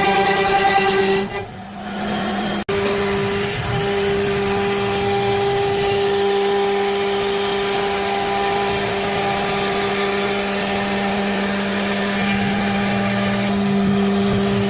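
CNC router spindle running at a steady speed with a constant whine over a rushing hiss. It briefly drops out about two seconds in and cuts off abruptly at the end.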